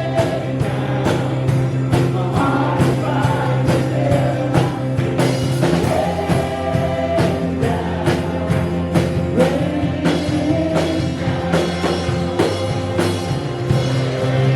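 Live worship band playing a song with a steady drum-kit beat and a held bass, with voices singing over it.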